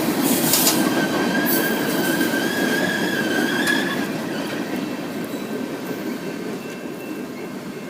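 Freight cars rolling past on steel wheels and rail, with a wheel squeal for about two seconds starting about a second and a half in. The rumble then fades as the train draws away.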